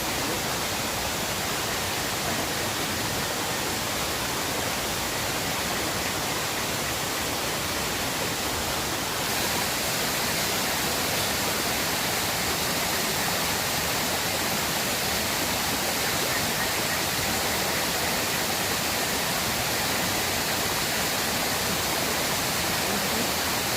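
River water rushing steadily, with a brighter hiss from about nine seconds in.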